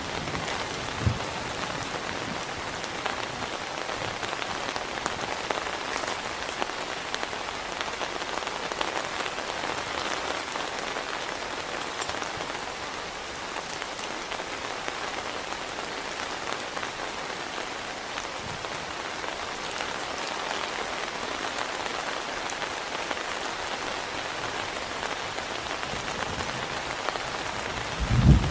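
Heavy rain falling steadily on a surface, an even hiss with scattered single drops ticking through it.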